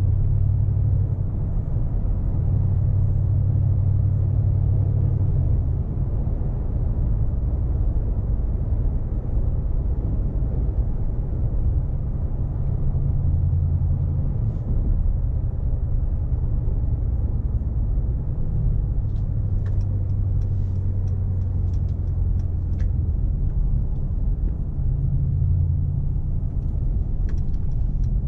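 Mercedes-AMG G63's 4.0-litre twin-turbocharged V8 running while driving, over steady road and tyre rumble; the low engine drone swells and eases several times. A few faint light ticks come in the last third.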